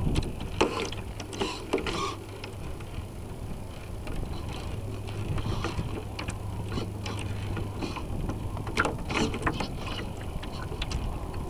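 Radio-controlled model sailboat heard from a camera on board: gear-like clicking and knocking from the hull's servo mechanisms over water noise, with a steady low hum from about four to eight seconds in.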